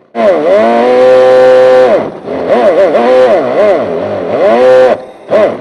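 Synthesized engine sound played through the small speaker of a homemade sound unit on an electric RC drift car, following the throttle. It starts just after a moment of silence, revs up and holds high for about a second and a half, drops, then goes through a string of quick rev blips with the pitch rising and falling, dipping briefly near the end before one more short blip.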